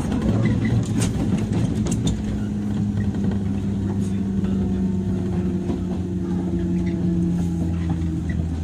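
Onboard running sound of a 103 series electric train's motor car: steady traction motor and gear hum that slowly falls in pitch as the train slows, over rolling noise with occasional sharp rail-joint clicks.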